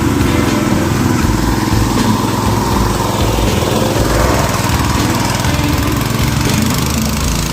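Honda GX200 single-cylinder four-stroke engine running steadily on a homemade go-kart.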